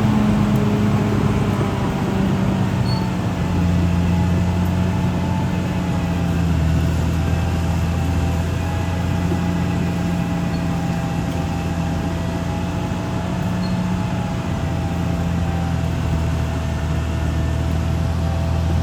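Caterpillar D6R crawler bulldozer's diesel engine running steadily under load, with a steady whine above the engine note.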